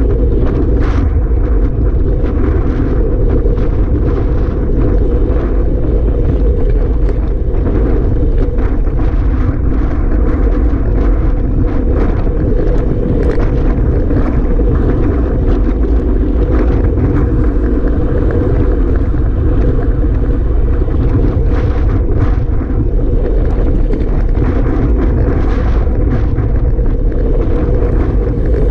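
Strong wind buffeting the microphone, a loud steady rumble that never lets up.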